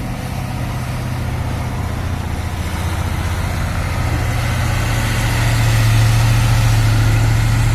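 Heavy truck's diesel engine running with a deep steady note, growing louder over the first five seconds or so and then holding.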